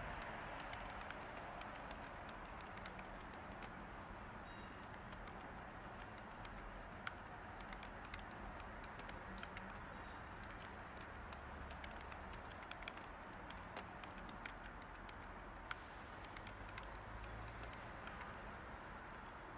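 Light typing on a computer keyboard, a run of soft, irregular key clicks over a steady hiss of background white noise.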